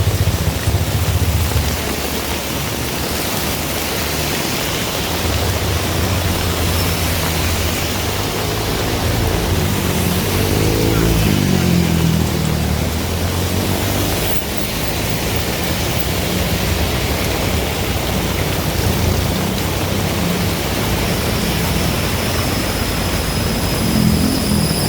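Heavy rain falling steadily, with vehicle engines running on the road; one vehicle passes about ten seconds in, its engine note rising and then falling, and another approaches near the end.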